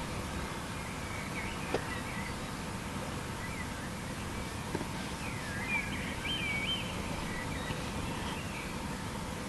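Birds chirping in short calls, most of them between about five and seven seconds in, over a steady outdoor hiss, with a couple of brief clicks.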